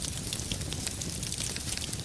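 Wood fire in a fireplace crackling, with many small quick pops over a low, steady rumble of the flames.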